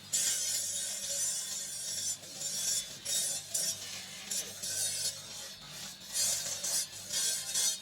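A hand abrasive rubbing against a green marble carving, in irregular rasping strokes about half a second each.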